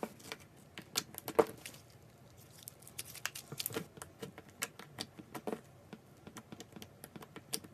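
A slime-filled stress ball being cut into: irregular sticky clicks and crackles, with the sharpest one about one and a half seconds in.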